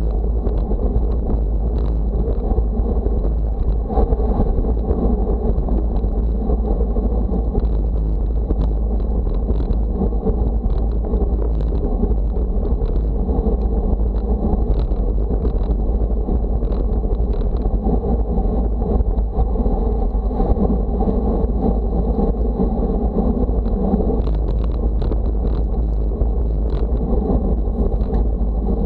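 Wind buffeting the microphone on a windy day: a steady, loud low rumble with no pauses.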